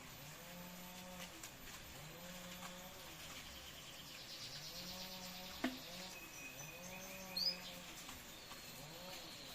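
Canaries chirping, with a rapid high trill in the middle and a short, sharp chirp later on. A fainter low call of about a second repeats steadily underneath.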